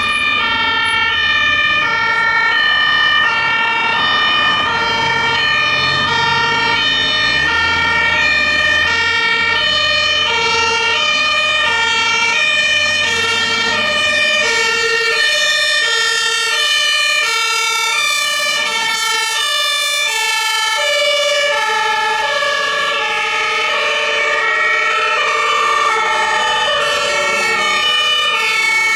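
German two-tone emergency-vehicle sirens (Martinshorn) sounding loudly, stepping back and forth between a high and a low note in a steady alternation, with more than one siren overlapping. A low vehicle engine rumble runs under the sirens for about the first half and then drops away.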